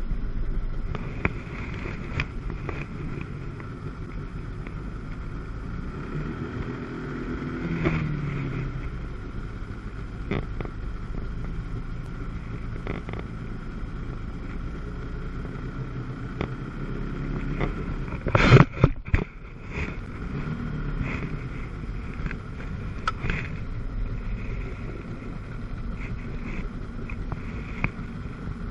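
1997 Sea-Doo GTS's 720 cc two-stroke twin running at low revs, its pitch rising and falling a couple of times. A few loud sharp knocks come about 18 seconds in.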